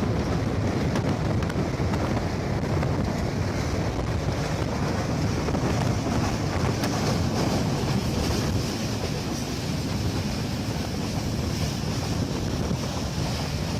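Wind rushing over the microphone, with a steady low rumble from a moving train.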